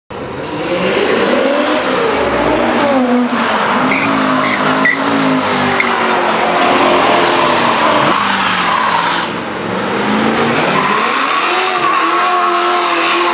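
Car engines running and revving as cars drive past, their pitch rising and falling again and again, with a few short high squeaks around the middle.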